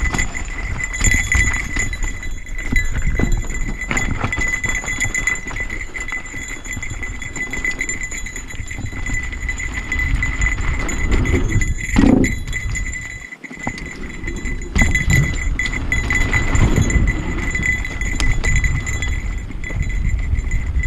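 Mountain bike clattering and rattling over rough trail, with a constant low rumble and a steady high whine.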